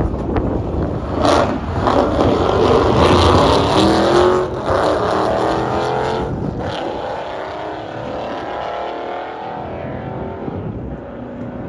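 Drag-racing cars launching and accelerating hard down the strip. The engine note climbs in pitch, loudest in the first few seconds, then fades steadily as the cars pull away.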